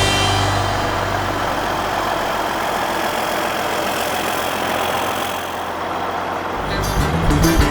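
John Deere self-propelled windrower (swather) running: a steady engine and machinery noise. Background music fades in again near the end.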